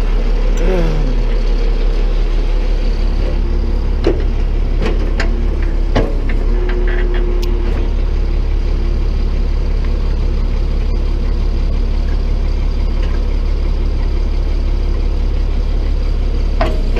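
Tow truck engine idling steadily, with a few sharp knocks around four to six seconds in.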